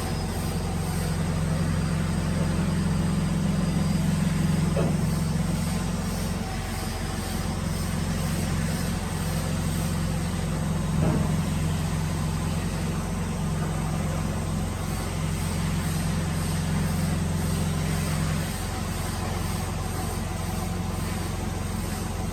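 A workshop machine's electric motor running with a steady low hum, with a few faint knocks.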